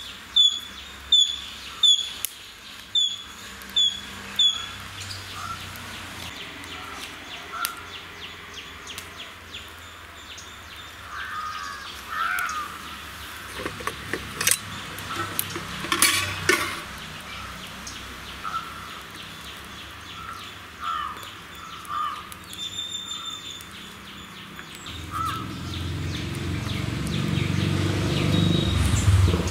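Birds calling: a high-pitched call repeated about twice a second for the first few seconds and again briefly past the middle, with softer short chirps in between. A sharp snap comes about halfway through, and a low rumble builds up over the last few seconds.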